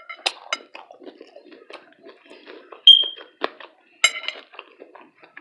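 Close-miked eating sounds: crackly chewing clicks and mouth smacks in quick succession. A brief high squeak about three seconds in is the loudest sound, followed by a sharp crackle a second later.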